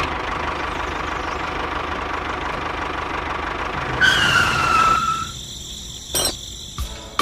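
A small motor running steadily, then stopping about five seconds in with a short falling whine, followed by a few light clicks.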